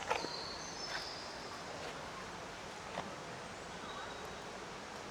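Steady background hiss of the biome's ambience, with a few faint high chirps in the first second and a couple of soft clicks.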